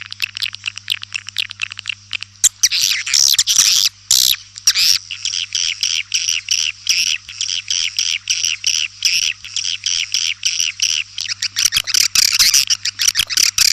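White-nest swiftlet calls: a dense, fast chittering of short chirps in quick succession, as on a lure-call track used to draw swiftlets into nesting houses. A faint steady low hum lies beneath.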